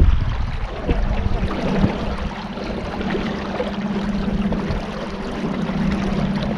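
A small boat's motor running steadily with a constant hum, with water rushing and splashing along the hull.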